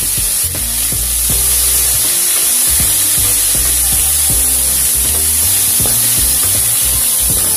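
Broccoli sizzling in a steaming wok, a steady hiss, while a wooden spatula stirs the pieces.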